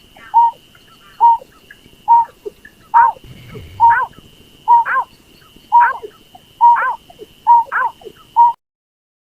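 Berkik bird lure call played back: short hooting notes repeating about once a second, most with a quick rising second note, over a faint steady high tone. The calling stops abruptly near the end.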